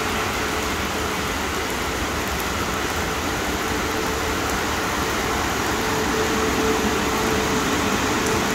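Heavy rain falling, with a steady mechanical hum holding one tone underneath it that grows slightly louder near the end.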